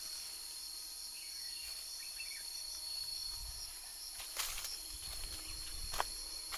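Steady chorus of insects, a continuous high-pitched drone. Two short, sharp clicks come about four and a half and six seconds in.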